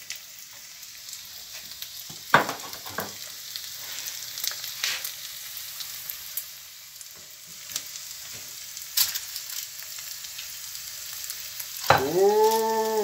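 Chopped onion frying in a pan: a steady sizzle, with a few sharp clicks and knocks. A short, loud, pitched hum comes in near the end.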